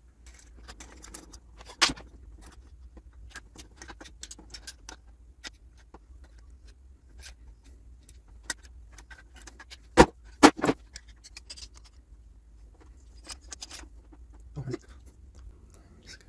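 Small metallic clicks and clinks of tools and parts being handled while the solenoid valve is removed from a Gaggia Classic espresso machine, with two louder knocks about ten seconds in.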